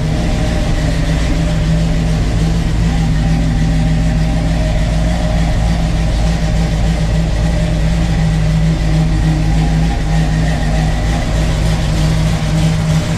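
Chevrolet 454 big-block V8 in a 1984 Oldsmobile Cutlass Supreme idling steadily, with no revving, warming up after a cold start.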